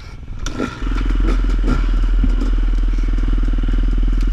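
Dirt bike engine catching about a second in and then running loud and steady at an even idle without revving. The bike has been stalling over and over, and this is it being restarted.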